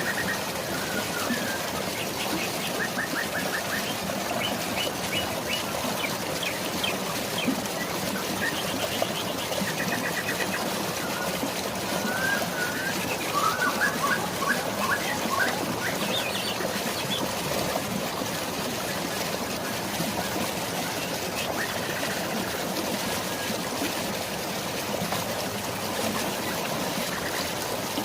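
Steady rush of flowing water, with birds chirping in short trills and calls over it, busiest in the first half and sparser later.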